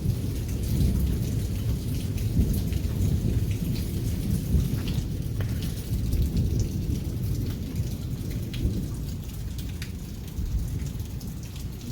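A big peal of thunder rolling as a long low rumble that eases off over the last few seconds, over steady rain.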